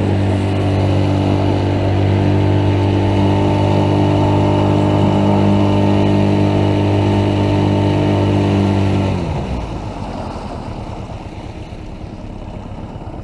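A boat motor runs at steady speed, then throttles down and cuts out about nine seconds in, its pitch falling as it stops. Only a noisy rush remains after it.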